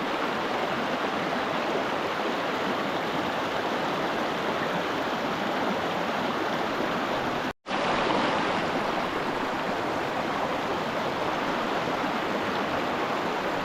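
Steady rush of a fast-flowing river, an even wash of water noise that drops out for an instant about halfway through before carrying on unchanged.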